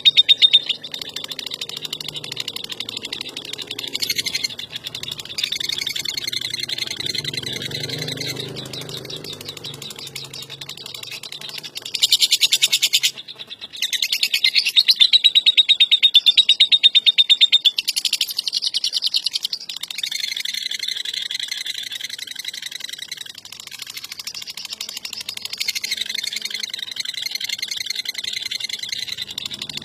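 Lovebird 'ngekek' call: a long, fast chattering trill of high, clipped notes, with loud bouts about twelve seconds in and again from about fourteen to eighteen seconds.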